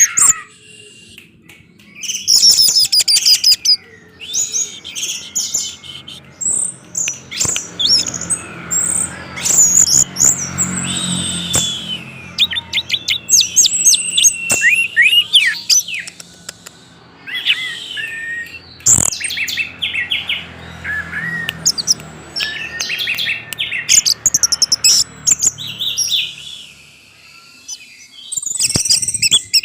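Orange-headed thrush singing: a long run of fast, varied high-pitched whistled and twittering phrases with quick pitch sweeps, broken by short pauses, with a quieter break near the end.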